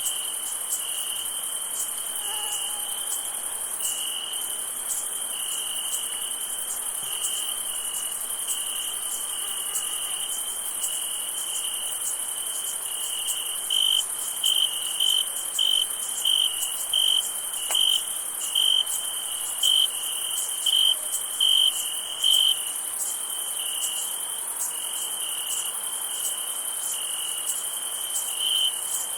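Crickets chirping: short chirps at one pitch, repeated in an even rhythm, over a constant high insect trill. About halfway through a closer cricket chirps louder for several seconds.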